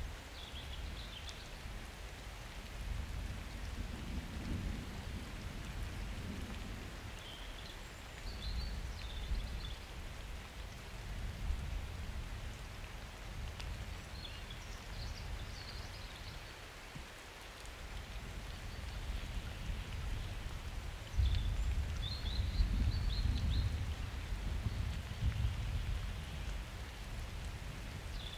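Steady summer rain falling, with low rolling thunder. The rumble swells twice, the stronger one coming in abruptly about three quarters of the way through.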